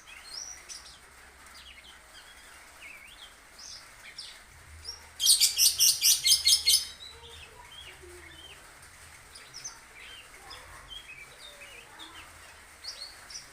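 Lovebird chirping in short high notes, with a loud run of about ten rapid shrill notes about five seconds in, lasting about a second and a half.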